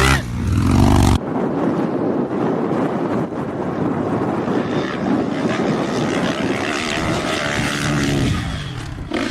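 Dirt bike engine running and revving over a strong rushing noise; the sound changes abruptly about a second in, then an engine note rises and falls near the end.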